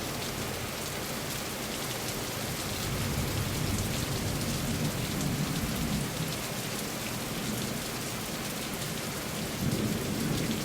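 Heavy rain falling steadily and pattering on surfaces, with low swells of distant thunder rumbling in the background.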